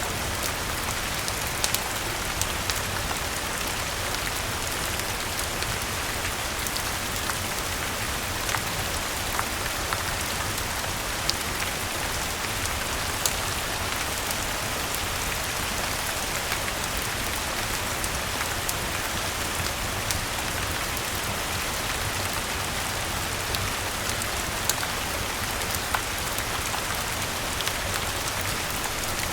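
Steady rain falling, an even hiss, with scattered sharp clicks of drops or crackles.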